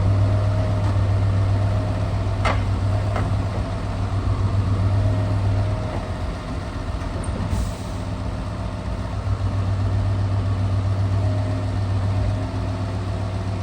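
Scania R650 truck's V8 diesel engine running steadily with a deep hum, with two short sharp sounds about two and a half seconds in and a brief high hiss near the middle.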